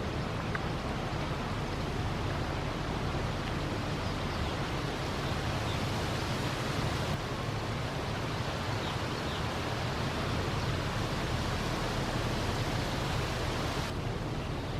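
Steady rushing outdoor noise, even and unbroken, with a low rumble underneath.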